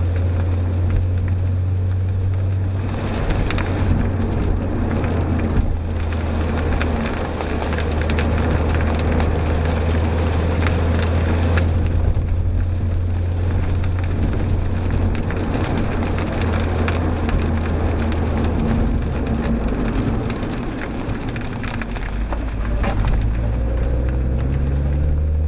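Mazda MX-5 NBFL's 1.8-litre four-cylinder engine droning steadily at cruising speed, heard from inside the cabin, under the hiss of a wet road and rain hitting the car. About twenty seconds in, the engine note drops, then climbs in pitch near the end as the car accelerates.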